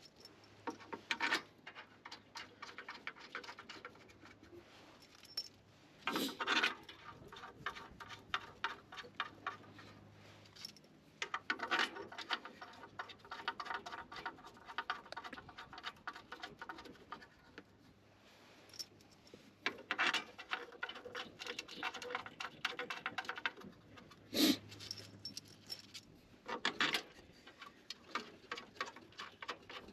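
Hand-tool and part-handling noise: runs of quick small metallic clicks and rattles lasting a few seconds each, broken by several sharper knocks, the loudest about two thirds of the way through.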